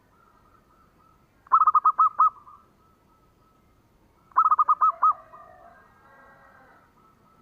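Zebra dove (perkutut) cooing twice, each song a quick run of about six clear notes, the second about three seconds after the first. A fainter, more varied bird call follows the second song.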